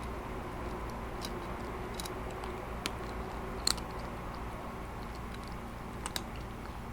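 A cat crunching dry kibble close to the microphone: a few sharp, irregular crunches, the loudest a little past the middle, over a steady background hum.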